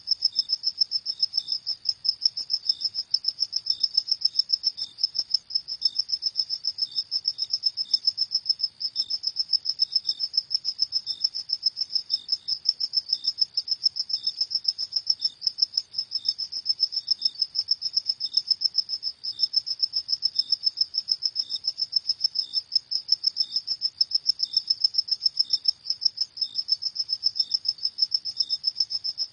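Crickets chirping in a steady, rapid, evenly pulsed high-pitched trill, with a fainter, lower chirp repeating at regular intervals.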